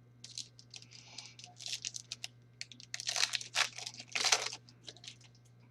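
Crinkling and rustling of trading cards and their packaging being handled, a run of short crackles that grows busiest and loudest about three to four seconds in, over a faint steady electrical hum.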